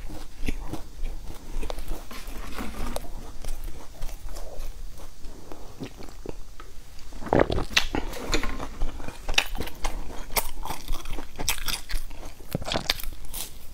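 Close-miked chewing and crunching of crisp puffed-rice bars with raisins, with a string of sharp crunches in the second half. Partway through, the chewing pauses for a drink of water from a plastic bottle.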